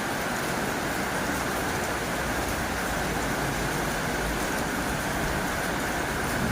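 Heavy rain drumming steadily on a tin roof, an even hiss with a faint low rumble swelling around the middle.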